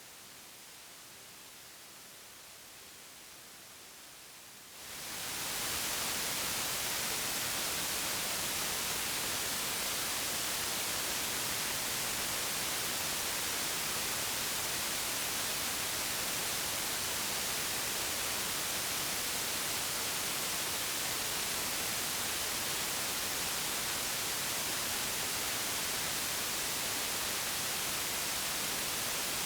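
Steady white noise hiss, a sleep-aid track. It starts quieter and duller, swells up over about a second around five seconds in, then holds an even, brighter hiss.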